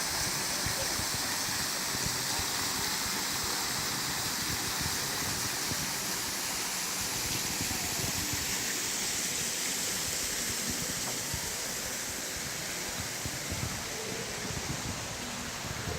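Waterfall rushing: a steady hiss of falling water that eases slightly near the end.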